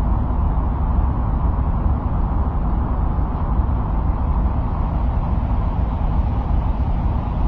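Steady, unbroken deep noise without any distinct events: an ambient 'sound of Mars' noise track.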